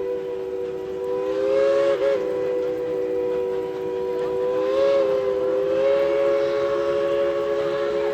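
The repaired chime steam whistle on Tweetsie Railroad locomotive #190 sounds one long, loud blast of three notes at once. Its pitch wavers briefly twice, about two and five seconds in, as the valve is worked.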